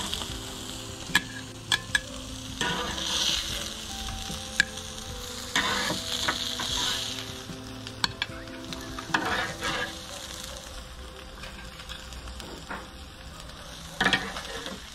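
Fish fillets sizzling steadily on a gas barbecue grill and hotplate. A metal spatula clicks and scrapes against the grill now and then as pieces are lifted off onto a plate.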